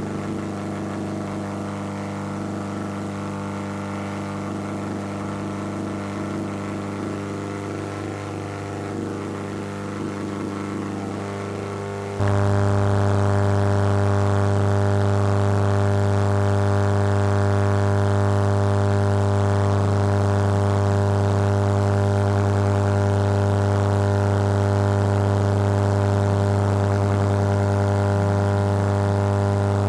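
Steady electrical hum from an Audio-Technica AT-LP1240 turntable's playback chain: a low buzz with many overtones, the fault the owner is showing. About twelve seconds in, it jumps suddenly louder and holds there.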